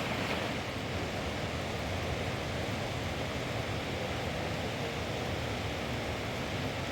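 Steady hiss of heavy rain, with wind.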